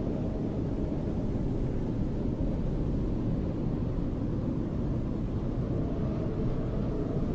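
Snowstorm wind blowing steadily, a dense low rumbling rush with no single gust standing out.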